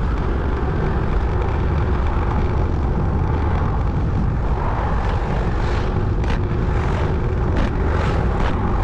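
Scooter riding at speed: steady wind rush on the microphone over the engine and road noise.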